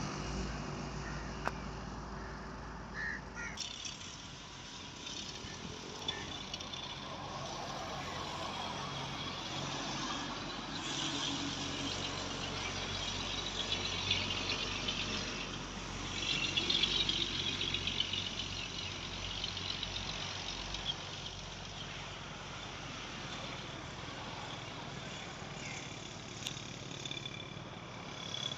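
Road traffic passing: a steady wash of engine and tyre noise that swells as vehicles go by, loudest about two-thirds of the way through. A low engine hum near the start drops away after about three seconds.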